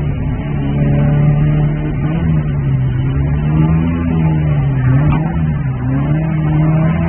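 Opel Manta GTE's four-cylinder engine heard from inside the cabin, pulling hard uphill. Its pitch sags about five seconds in as the car slows for a hairpin, then rises again as it accelerates out.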